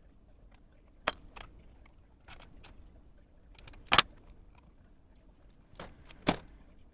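A handful of sharp metallic clicks and clinks, like small metal objects being handled and set down, spaced unevenly with the loudest about four seconds in and another near the end.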